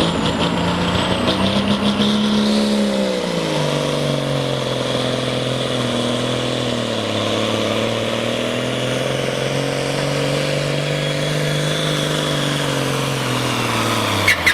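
Case hot stock diesel pulling tractor at full power dragging a weight sled. The engine note drops sharply about three seconds in as it loads down, then holds steady under the load. A faint turbo whistle is heard early, and a quick rattle of sharp pops comes at the very end.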